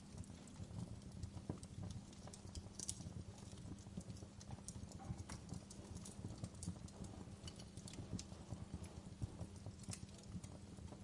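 Wood fire crackling in a fireplace: irregular sharp pops and snaps of burning wood over a low, steady rumble.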